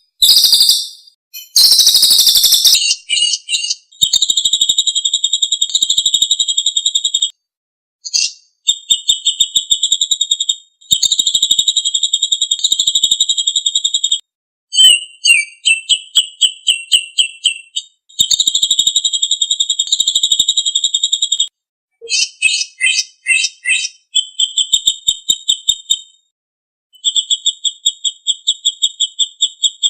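A songbird singing long, rapid, high-pitched trills in phrases of a few seconds each, separated by short pauses. Some phrases break into quicker chirping notes that drop slightly in pitch.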